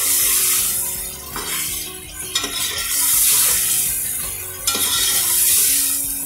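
Chicken pieces frying in hot oil and tomato masala in an aluminium pressure cooker, sizzling in swells every couple of seconds as they are stirred and turned with a metal ladle. The ladle scrapes and knocks against the pot a few times.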